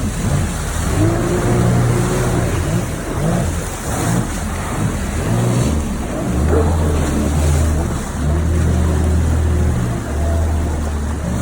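Jet ski engine running on the water, with a constant rush of spray and wind. The engine note shifts up and down in the first half and holds steadier from about halfway.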